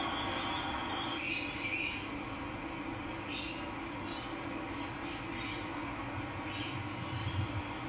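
Steady rush of running water with wild birds calling in short notes every second or so, the loudest a pair of calls just over a second in.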